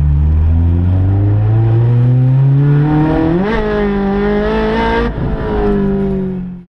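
Toyota AE86's four-cylinder engine heard inside the cabin, its pitch climbing steadily as the car pulls away, stepping up sharply about three and a half seconds in and then holding. The sound cuts off abruptly near the end.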